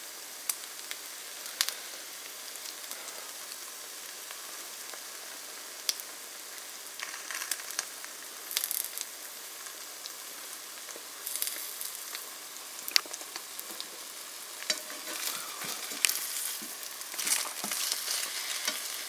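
Buttered bread slices with eggs in their centres frying in a pan: a steady sizzle with scattered sharp pops and crackles, growing louder and busier in the last few seconds.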